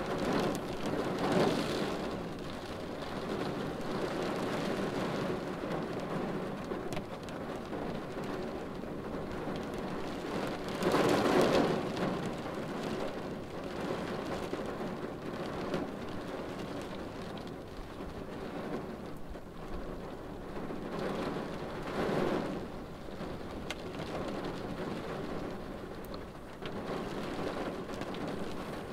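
Rain falling steadily on a car windshield. It swells louder briefly three times: about a second in, again at about eleven seconds (the loudest), and at about twenty-two seconds.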